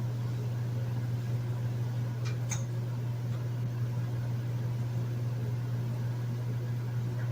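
Hotel room air conditioner running steadily: an even fan rush over a strong low hum. A couple of faint ticks come about two and a half seconds in.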